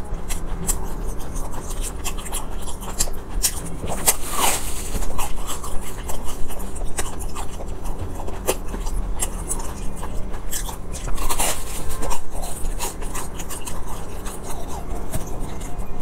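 Close-miked eating of a fried sesame ball: chewing with many small mouth clicks and crackles, and two louder bites into the crust about four and eleven seconds in.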